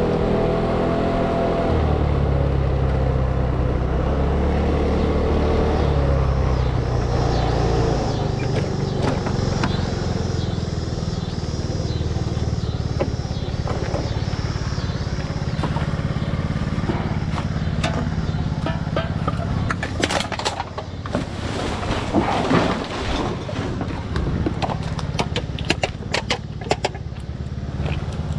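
A motor vehicle engine running steadily, with a run of sharp clicks and knocks in the last several seconds.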